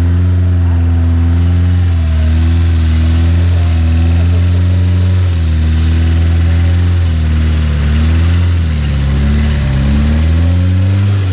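Off-road car engine running under load with the revs wandering up and down, dipping about halfway through and again later before picking back up near the end.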